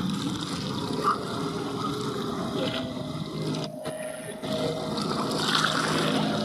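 Boat engine droning steadily over water, with a steady higher tone joining about halfway through.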